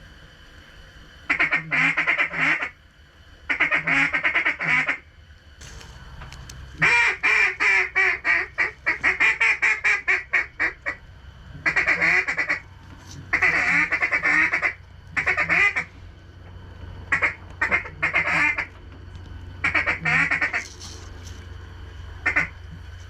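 Loud mallard hen quacking in repeated runs: two sequences of quacks, then a long, fast run of quacks in the middle, then several shorter bursts near the end.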